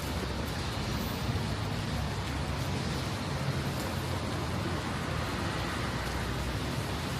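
Steady city street noise: passing traffic in the rain.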